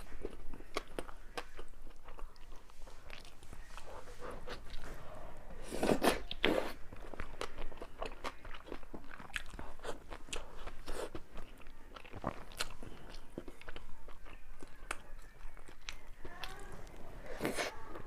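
Close-miked eating: a person biting and chewing, with many small sharp crackles throughout and two louder bites, one about six seconds in and one near the end.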